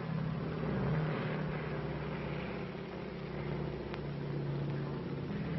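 Propeller aircraft engine running steadily, a low drone whose pitch wavers slightly, over the hiss of an old optical film soundtrack.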